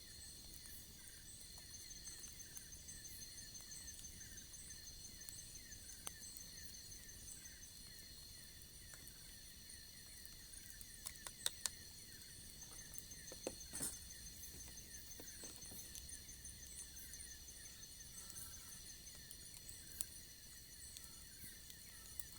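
A chorus of crickets and other insects trilling steadily in several high pitches, with one quick chirp repeating many times a second underneath. A few sharp clicks come a little past the middle.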